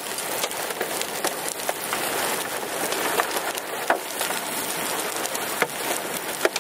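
Rain and small hail falling on a car: a steady hiss broken by scattered sharp hits of single hailstones striking the body, about eight in all, as the storm is lightening up.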